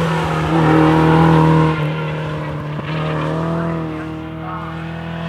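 Rally car engine running hard on the track, loudest from about half a second in until just under two seconds, then dropping back.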